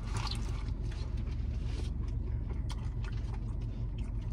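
Biting into and chewing a mouthful of fried chicken wing, with scattered small wet mouth clicks, over a steady low hum inside a car.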